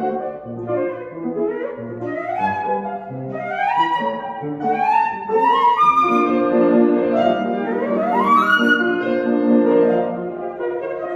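Flute and grand piano playing classical music: the flute plays a series of quick rising runs over sustained piano chords and low bass notes, growing louder toward the middle.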